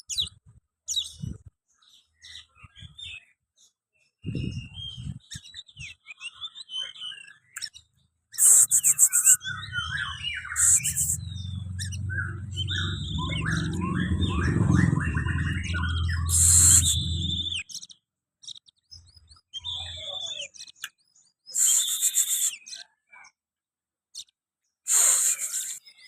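Oriental magpie-robin (kacer) singing: a varied run of short whistles, chirps and trills, broken by several short, harsh, hissing bursts. A low rumble runs under the song from about eight to seventeen seconds in.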